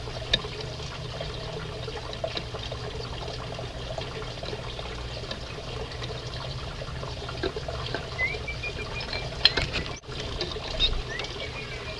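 Aviary finches giving scattered soft chirps and ticks, with a few short rising whistled calls in the second half, over a steady low hum.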